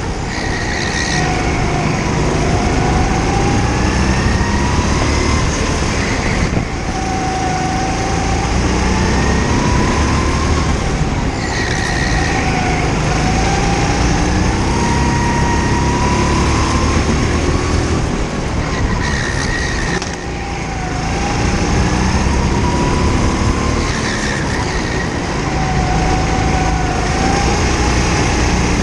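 Go-kart engine revving up and dropping back again and again as the kart accelerates and lifts off through the corners of a lap, the pitch climbing for a few seconds at a time.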